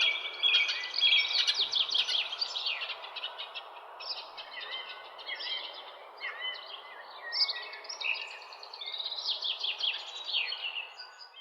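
Several songbirds chirping and trilling at once, quick overlapping calls and short whistled glides, over a steady low background hiss of outdoor ambience.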